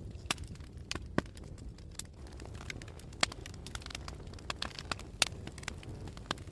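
Wood fire burning in a fireplace, with a low steady rumble and irregular sharp crackles and pops, several of them louder than the rest.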